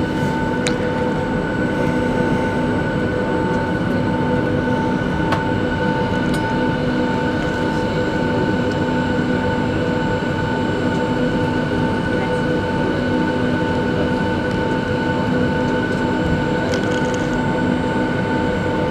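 Boeing 757 cabin noise while taxiing: the Rolls-Royce engines whine at idle over a steady rumble, with no change in pitch or level.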